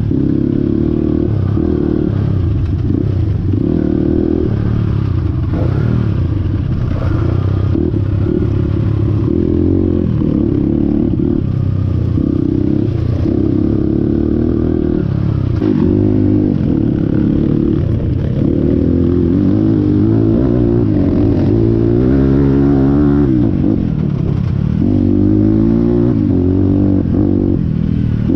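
Motorcycle engine running while riding, its pitch climbing and dropping again and again as the rider accelerates and shifts gears.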